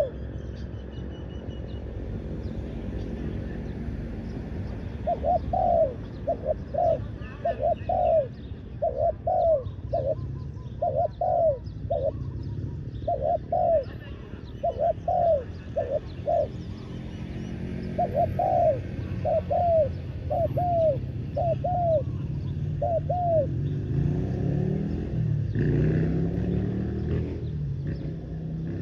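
Spotted dove cooing: a long series of short, arched coos in quick groups, then it stops with a few seconds left. A steady low rumble runs underneath and swells briefly near the end.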